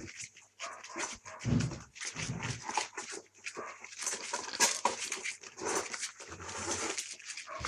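Month-old puppies eating meat: a dense, irregular run of wet smacking and chewing clicks, with small puppy whines mixed in.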